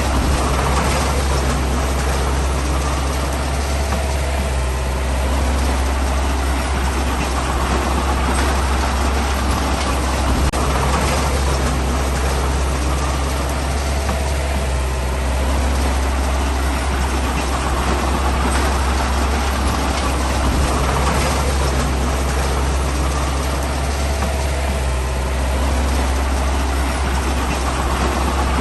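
Heavy diesel engine of earthmoving machinery running under load with a deep steady drone, swelling a little about every five seconds as the load changes.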